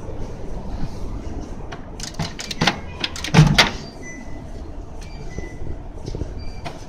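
Shop ambience: a steady background din, with a burst of clattering knocks about two to three and a half seconds in and a few faint short beeps after it.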